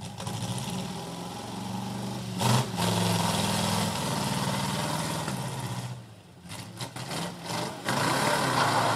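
1968 Chevrolet C10 Stepside pickup's engine running as the truck is driven, with a brief thump about two and a half seconds in. It grows louder about three seconds in, eases off around six seconds, and comes back louder near the end.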